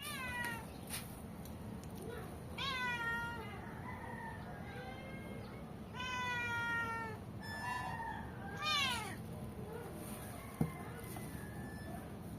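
A domestic cat meowing repeatedly, about six meows, most falling in pitch, the longest and loudest about six seconds in. A single sharp click comes near the end.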